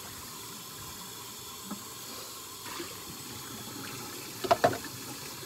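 Kitchen tap running steadily into a sink during dishwashing, with a quick cluster of ringing clinks of dishes knocking together about four and a half seconds in.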